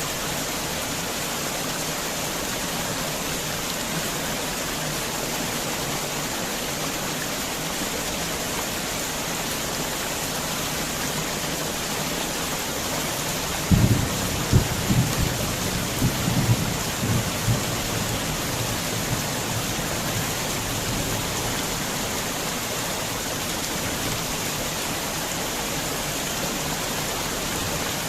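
Heavy rain falling steadily. About halfway through, a low rumble of thunder breaks in suddenly with a few sharp cracks and rolls away over several seconds.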